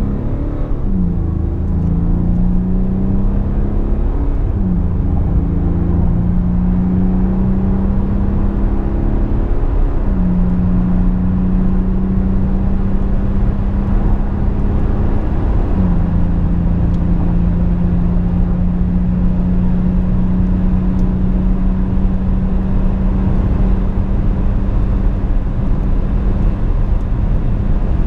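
DS7 Crossback's 2.0 BlueHDi four-cylinder turbodiesel at full-throttle acceleration, heard from inside the cabin. The engine note climbs in each gear and drops sharply at automatic upshifts about 1, 5, 10 and 16 seconds in. After the last upshift the note holds nearly steady for a long stretch under heavy road and wind noise as the car passes 180 km/h.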